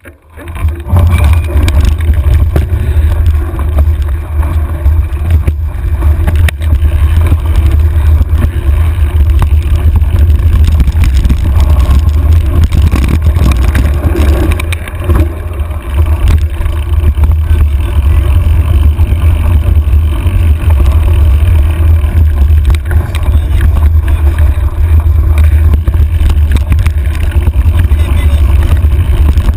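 Heavy wind buffeting on a handlebar-mounted camera's microphone as a mountain bike rides singletrack, with frequent small knocks and rattles from the bike and tyres over the trail. It starts abruptly from near silence.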